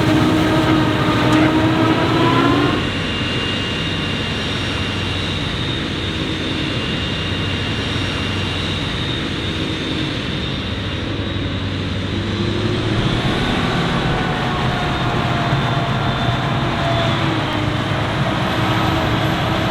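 Diesel engines of maize-harvest machinery running, over a steady rumble. In the first three seconds one engine's tone drops in pitch and fades out; about 13 seconds in another engine's tone comes in and holds steady.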